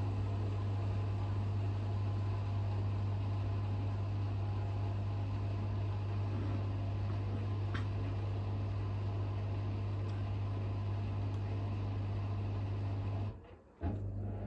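Hoover H-WASH 500 washing machine running mid-cycle on its Cotton 60 programme, a steady low hum with a haze of machine noise. It cuts out abruptly for about half a second near the end, then starts again.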